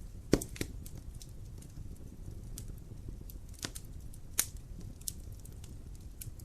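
Wood fire crackling in a fireplace: irregular sharp pops and snaps over a low, steady rumble of burning. The loudest pop comes about a third of a second in, with two more strong ones a little past the middle.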